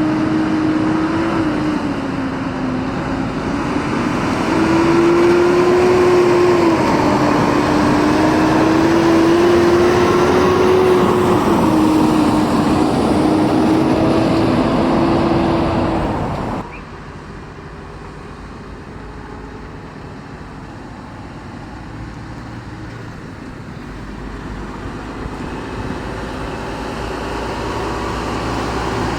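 Heavy diesel road train pulling away and accelerating, its engine note climbing and then dropping twice as it works up through the gears. About 16 seconds in, the sound cuts off abruptly to a quieter traffic hum, and a low rumble builds again toward the end as another truck approaches.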